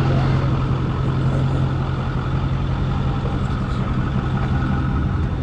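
A pickup truck engine idling steadily, an even low hum that does not change.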